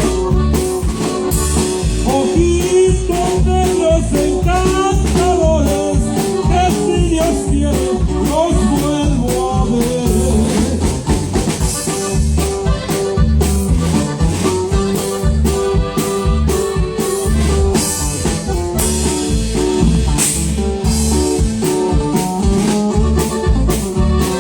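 A band playing the closing part of a Spanish-language song: a lead melody line over steady drums, bass and chords.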